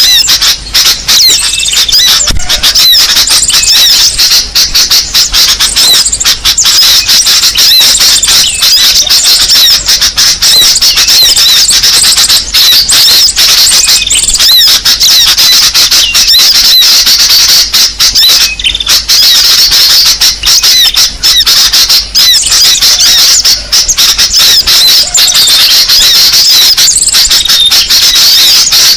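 Loud, dense chatter of many small songbirds chirping and twittering over one another without pause: a recorded bird-lure call played to draw small birds in.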